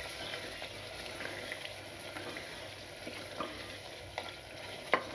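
Mutton curry sizzling in an open aluminium pressure cooker on high heat as it is stirred and fried down (the bhuna stage), with a few knocks of the wooden spoon against the pot; the sharpest knock comes near the end.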